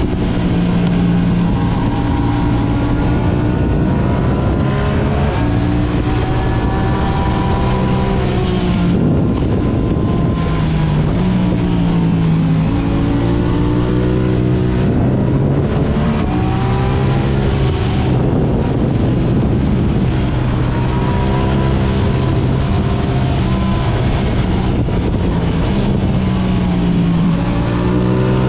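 Yamaha R6 sport bike's inline-four engine through an Akrapovic exhaust, heard onboard while riding. The engine note holds and climbs as it revs through the gears and drops sharply several times as the revs fall.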